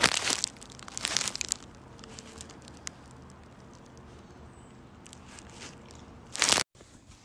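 Short bursts of crinkling and crunching with faint clicks between them; the last burst cuts off abruptly near the end.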